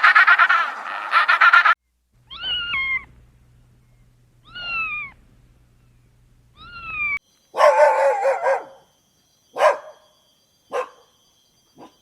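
A loud, rapid chattering animal call cuts off abruptly in the first two seconds. Then a cat meows three times, each meow falling in pitch, and a dog barks: one longer bark, then three short ones.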